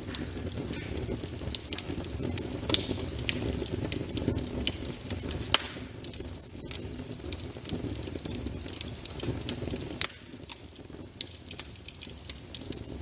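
Wood fire in a fireplace crackling, with many sharp irregular pops over a low steady rumble of the flames.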